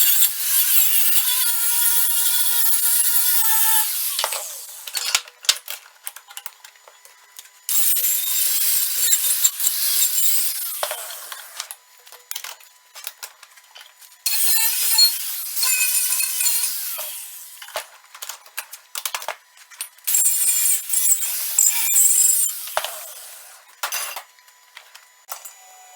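MIG welder laying short welds on the broken seams of a steel T-post pounder, in four bursts of a few seconds each that start and stop sharply, with scattered clicks and knocks between them.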